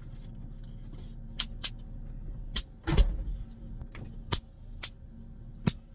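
Sharp clicks and knocks of things being handled and set down inside a van, one heavier knock with a low thud about three seconds in, over a steady low hum.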